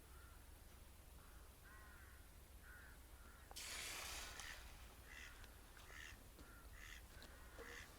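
Faint duck quacking: a few drawn-out quacks, then a run of short quacks about two a second in the second half. A brief rustle of noise comes a little before the middle.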